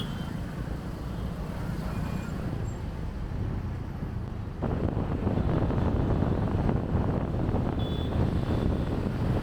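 Road traffic heard from a moving motorbike: a steady engine and traffic rumble with wind buffeting the microphone. About halfway through it suddenly becomes louder and rougher.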